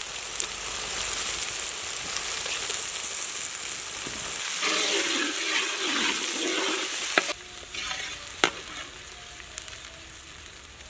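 Onions, green chilies and ginger-garlic paste sizzling in hot oil in a large kadai as they are stirred with a metal spatula. The sizzle drops off sharply about seven seconds in, leaving quieter frying with a couple of sharp knocks of the spatula against the pan.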